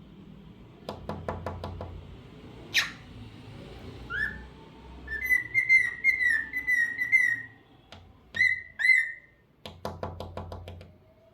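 Cockatiel whistling: a sharp chirp, then a quick string of about eight short whistled notes, then two loud chirps. Two bursts of rapid tapping, one near the start and one near the end.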